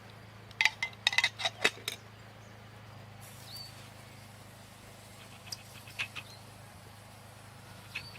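A quick run of sharp clicks or clinks about half a second in, then a few scattered lighter clicks and two short high notes, over a steady low hum.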